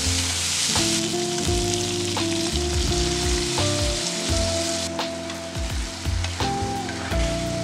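Chicken, pineapple and red pepper sizzling as they are stir-fried in a non-stick pan, with a spatula stirring and a few sharp clicks against the pan. Background music plays underneath.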